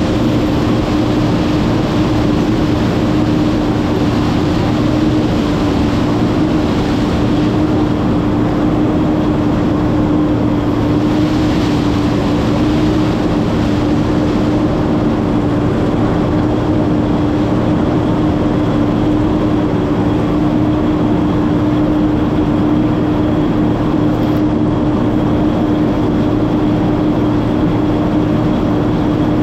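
Massey Ferguson 9690 combine running steadily while shelling corn: a constant machine drone with a strong single hum over broad mechanical noise.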